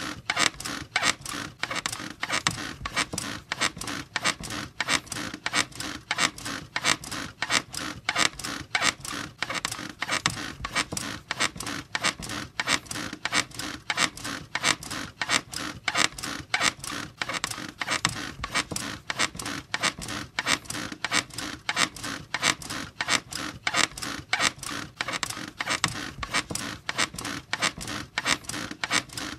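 A squeaky bed creaking over and over in a steady, even rhythm, as if someone were bouncing on it.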